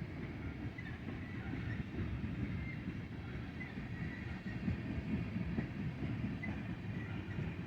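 Freight cars of a long BNSF stack and empty ethanol train rolling past, a steady low rumble of wheels on rail with faint short wheel squeaks scattered through.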